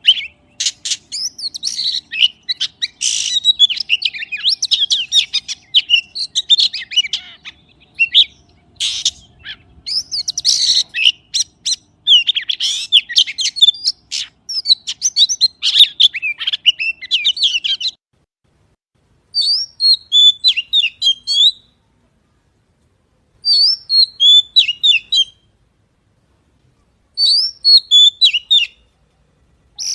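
Oriental magpie-robin singing: a long run of rapid, varied whistles and chirps, then, after about 18 seconds, three short song phrases with pauses of a couple of seconds between them.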